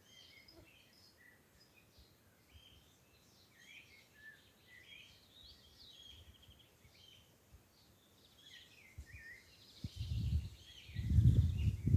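Small songbirds chirping and singing in quick, scattered notes. From about ten seconds in, a loud, rough low rumble of handling or wind noise on the microphone takes over.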